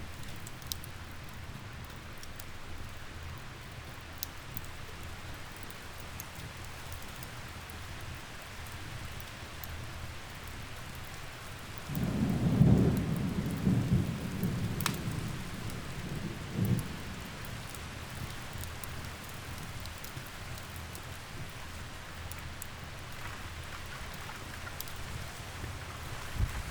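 Steady rain falling, with a roll of thunder about halfway through that swells and then dies away over a few seconds. Occasional sharp pops from a crackling log fire sit on top.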